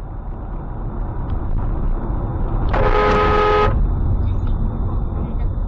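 Car driving with steady low road and engine rumble, and a car horn sounding once for about a second in the middle.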